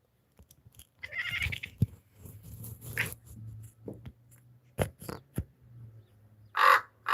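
Domestic cat making a short pitched vocal sound about a second in, with a few sharp knocks over the following seconds. Near the end a raven caws loudly.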